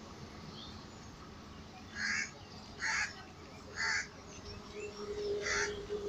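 Four short, harsh bird calls about a second apart, over a low background rumble; a faint steady hum comes in near the end.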